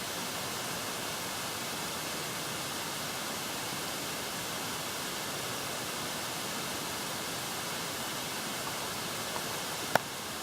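Steady, even hiss with no rise or fall, and a single sharp click near the end.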